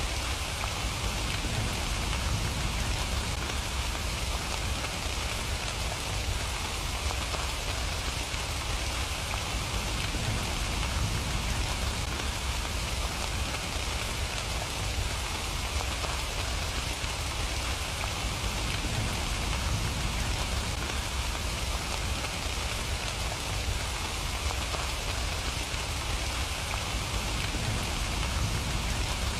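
Steady rain falling, an even pitter-patter hiss, with a constant low rumble beneath it.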